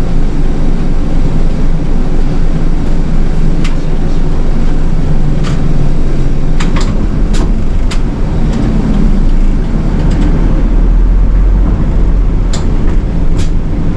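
A city bus's engine and road noise, a loud steady low rumble while the bus drives, with scattered sharp clicks and rattles from the cabin.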